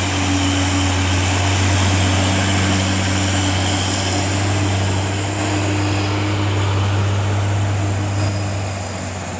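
Hino truck's diesel engine running with a steady, unbroken drone as it pulls up a steep grade.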